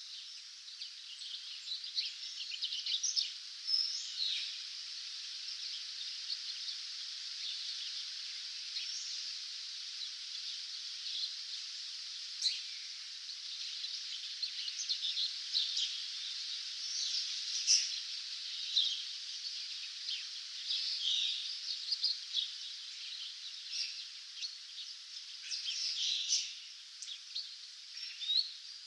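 Dawn chorus: many songbirds singing at once, a steady mass of high chirps, whistles and trills, with individual calls standing out every second or two.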